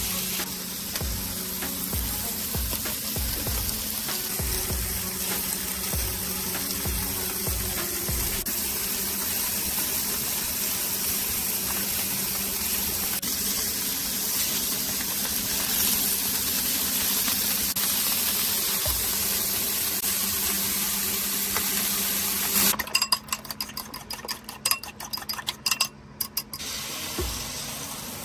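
Slices of summer sausage sizzling on a flat cast iron griddle, a steady frying hiss. About 23 seconds in it gives way to a quick run of sharp clicks and knocks.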